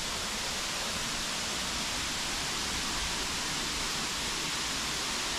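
Steady rush of falling water from a nearby waterfall, an even hiss with no breaks.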